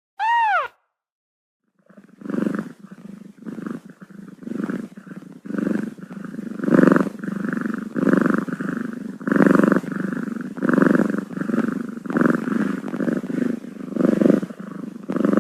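One short kitten mew that rises and falls in pitch, then after a brief pause a cat purring steadily, swelling about once a second with each breath.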